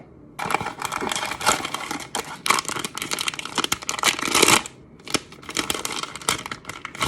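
Blind-box packaging being opened by hand: plastic or foil wrapping crinkling and tearing in a dense run of crackles for about four and a half seconds, then sparser rustling.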